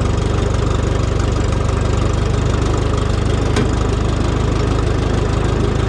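Minneapolis-Moline tractor's 403 cubic-inch gasoline engine idling steadily, running well with almost 30 pounds of oil pressure at idle. A single short click sounds about three and a half seconds in.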